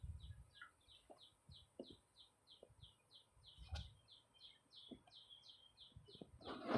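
A bird chirping faintly and steadily, a short falling note repeated about three times a second, with a few faint low knocks.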